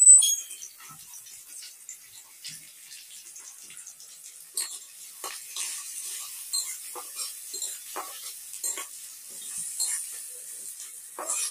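Chopped onions sizzling in hot oil in a black kadai, with a brief loud crackle at the very start. From about four and a half seconds in, a steel spatula scrapes and knocks against the pan in an uneven rhythm as the onions are stirred.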